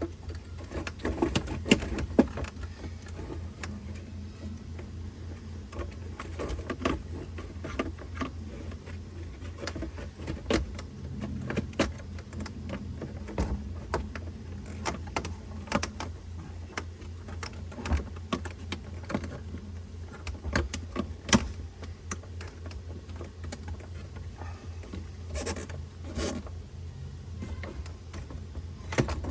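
Plastic clicks, taps and rattles of a pool robot vacuum's housing and clips being handled and fitted together, irregular and at times sharp, over a steady low hum.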